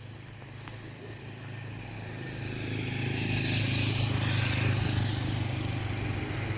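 A road vehicle's engine running, with a steady low hum and tyre hiss that grow louder over the first three seconds as it draws near, then stay loud.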